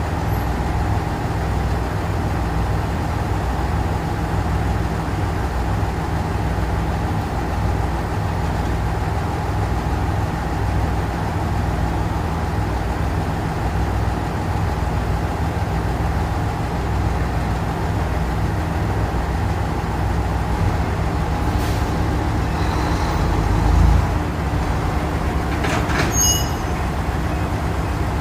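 A train standing at the platform, its equipment running with a steady low rumble and hum. About 24 s in there is a heavy thud, and about 26 s in a sharp click with a brief higher ringing tone, in keeping with coupling cars together.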